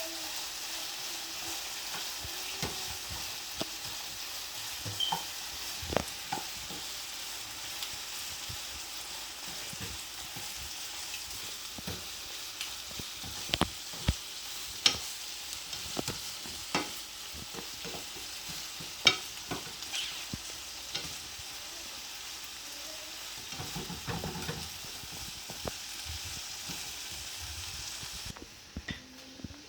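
Cicadas frying in oil in a pan with onion and chili, a steady sizzle, with scattered sharp clicks and knocks of a utensil stirring against the pan. The sizzle drops away just before the end.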